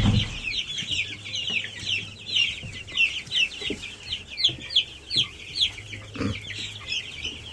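A flock of two-to-three-week-old broiler chicks peeping continuously, many short high calls overlapping.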